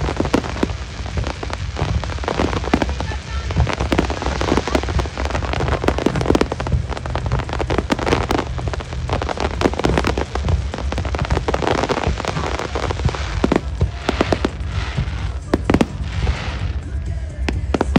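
Aerial fireworks going off in a dense run of bangs and crackling, many reports a second over a steady low rumble, thinning to fewer separate bangs near the end.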